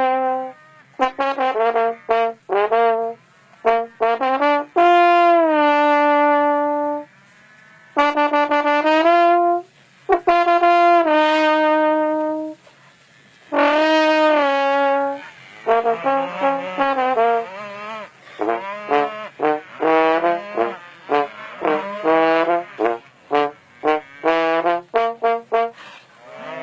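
A person singing to call cows, with long drawn-out held notes in the first half and quicker, choppier sung phrases in the second half.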